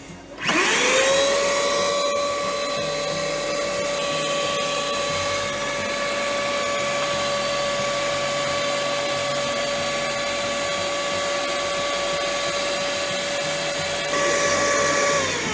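Electric motor spinning up with a rising whine, running at one steady pitch for about fifteen seconds, then winding down at the end.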